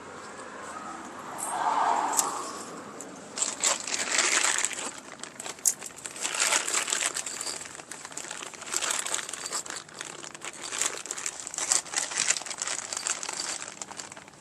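Plastic packaging of a drum-brake hardware kit crinkling and crackling irregularly as parts are taken out of the bags.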